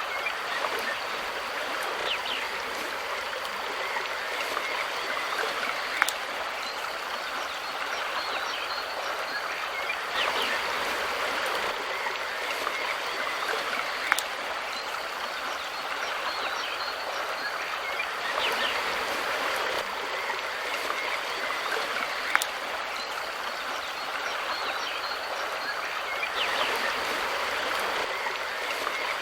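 A shallow mountain river running steadily over stones, a constant rushing of water. A short sharp click stands out about every eight seconds.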